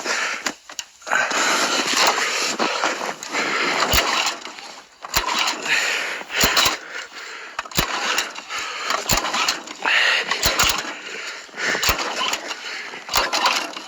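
Lawn tractor's small engine being cranked by hand on its recoil pull-starter, several rough noisy pulls in a row with sharp clicks between them; the engine does not start.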